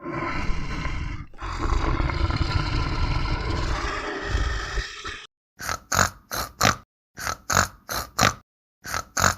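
Animal calls: one long, noisy call for about five seconds, then after a brief break a string of short repeated calls, about three a second in groups of four.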